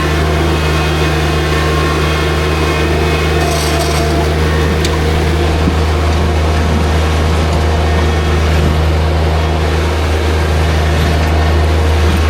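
New Holland TZ22 compact tractor's engine running steadily under load, with gravel scraping and rasping as the loader bucket back-drags the driveway.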